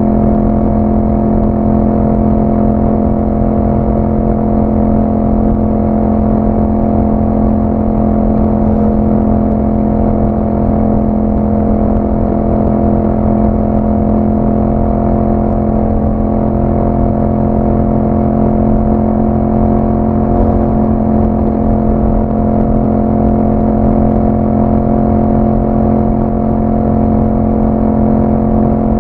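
2021 Yamaha MT-07's parallel-twin engine running through an Akrapovic exhaust with a dB killer, holding one steady pitch as the bike cruises.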